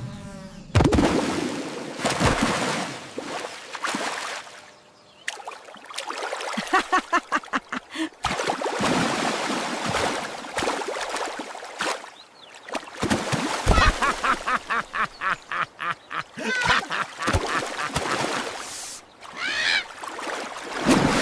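Ducks quacking in several rapid runs of short calls.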